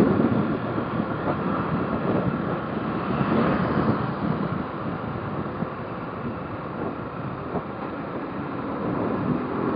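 Motorcycle on the move: wind rushing over the microphone over the engine and road noise, steady and continuous.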